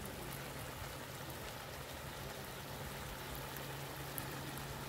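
Onions and capsicum sizzling in sauce in an iron kadhai over a wood fire: a steady frying hiss with a few faint crackles, over a low steady hum.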